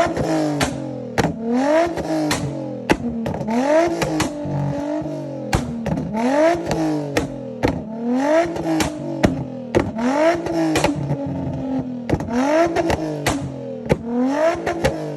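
Nissan 350Z's V6 engine on a flame-tune map, revved over and over about once a second, each rev rising then falling, with sharp exhaust pops and crackles between revs.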